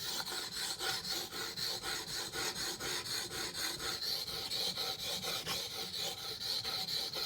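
A ZT knife blade being stroked back and forth on a wet King whetstone. Steel scrapes through the stone's slurry in quick, even, repeated strokes, several to the second.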